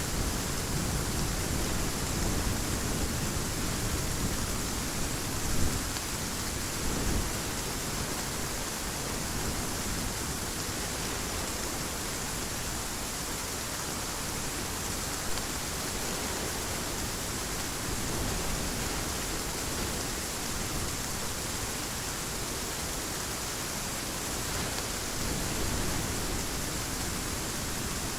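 Heavy rain falling in a steady hiss, with low thunder rumbling through the first several seconds and swelling twice about six and seven seconds in.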